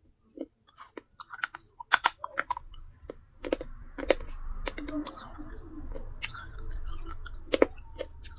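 Dry baked clay pot pieces crunching and cracking close to the microphone, many sharp irregular clicks, thickening into dense crackling in the middle.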